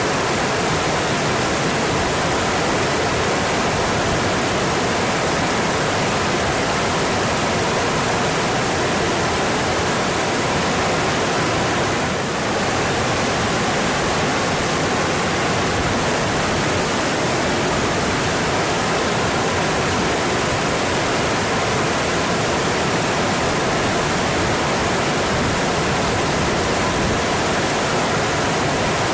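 Mountain stream running steadily, an even wash of water noise with a slight brief dip about twelve seconds in.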